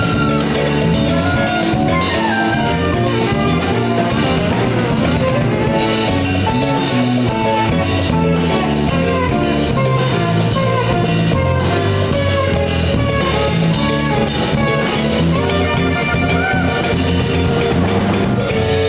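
Live jazz-fusion band of piano, saxophone, electric guitar, bass guitar and drum kit playing together, a busy passage of many short melodic notes over bass and drums.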